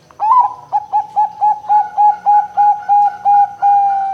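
Zebra dove (perkutut) cooing: a rising opening note, then a quick run of about a dozen short, clipped coos at roughly four a second, ending on a longer held note.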